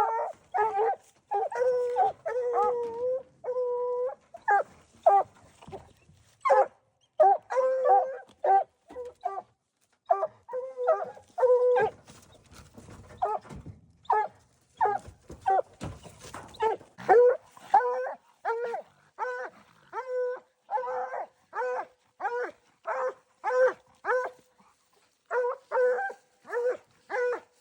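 Hunting dog barking at a raccoon, a long run of short, steady barks of much the same pitch, about one or two a second, with a few longer drawn-out bays in the first few seconds and a quieter lull about halfway through.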